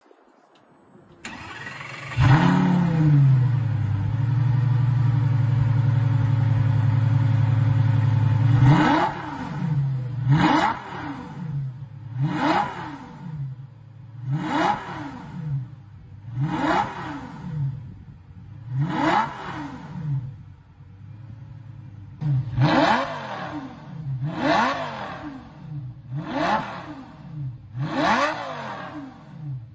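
Lamborghini Gallardo V10 with a straight-pipe stainless exhaust starting up about two seconds in with a quick flare of revs, then holding a steady high idle. From about nine seconds in it is blipped over and over, about every two seconds, each rev rising and falling; after a short pause at idle the blips come quicker near the end.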